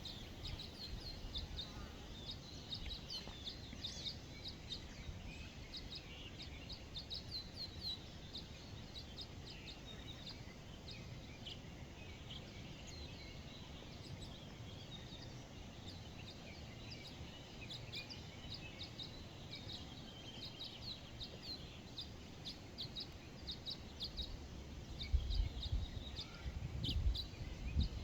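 Forest birds calling and singing, a dense run of short high chirps and trills from several birds. Low rumbling gusts come in near the end.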